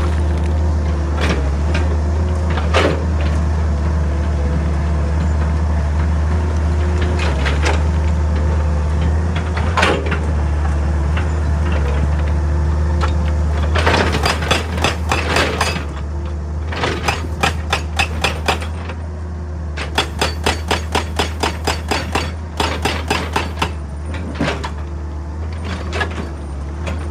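Excavator's diesel engine running steadily, with scattered knocks of rock in the first half. In the second half come several runs of rapid hammering, about ten blows a second, each lasting a second or two, from a hydraulic rock breaker working on stone.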